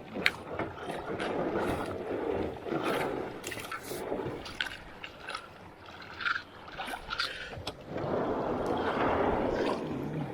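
Kayak paddling: water swishing and splashing in swells with each stroke, with scattered sharp clicks and knocks.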